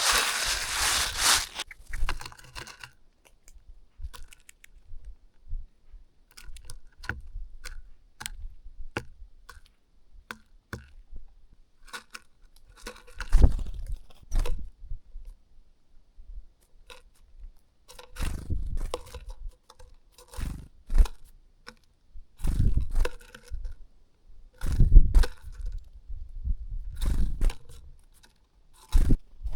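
Small birds feeding close to the microphone: irregular pecking taps, scratches and crunches, with several louder, muffled thumping bursts of a second or so.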